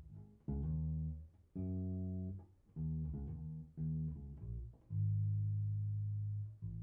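Electric bass, tuned a half step down, played through a Fender Rumble 100 V3 bass combo amp: a few separate plucked notes, then one long held note that slowly fades.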